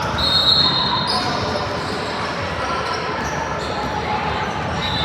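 Basketball game in a gym: a ball being dribbled over crowd and player voices, with short high sneaker squeaks on the court near the start and again near the end.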